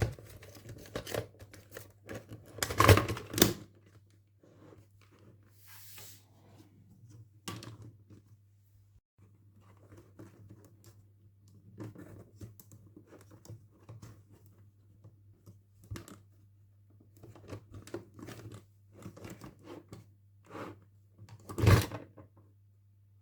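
Toy packaging being opened by hand: rustling, small clicks and tearing, with two louder tearing bursts, one about three seconds in and one near the end, over a steady low hum.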